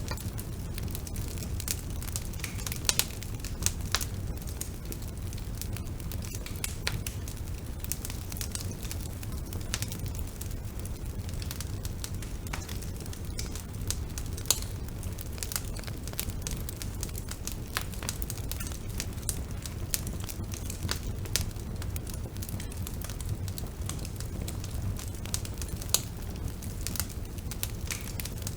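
Wood fire burning, with a steady low rumble of the flames and irregular crackles and sharp pops from the burning wood.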